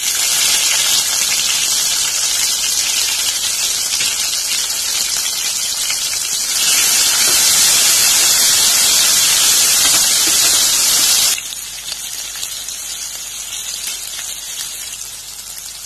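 Chopped tomato sizzling loudly as it hits hot oil with onions, mustard seeds and curry leaves in a stainless steel kadai, and is stirred with a steel ladle. The sizzle starts the instant the tomato goes in, grows louder partway through, then drops suddenly to a softer, steady frying hiss for the last few seconds.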